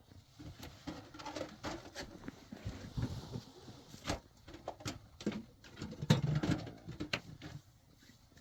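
Irregular clicks, light knocks and rustles of objects being handled, with a louder knock about six seconds in.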